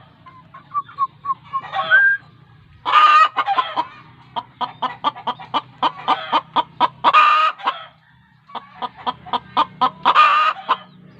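Chicken clucking in rapid runs of short notes, about five a second, broken three times by a louder drawn-out call.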